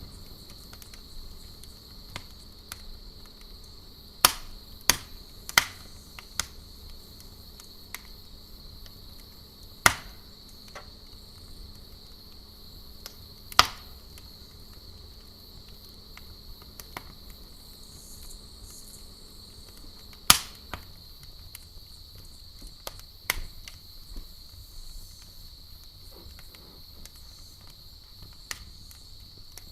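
Campfire wood crackling with sharp, irregular pops, over a steady high-pitched cricket trill.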